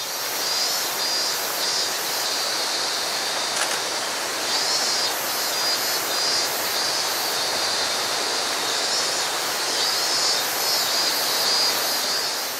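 Jomo Electric Railway electric train running on the line, a steady rushing noise that holds level throughout. Over it runs a high buzzing that pulses about twice a second.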